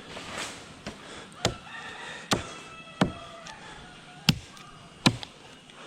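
A blade chopping into the dry wood of a dead jackfruit tree: five separate sharp strokes, roughly a second apart.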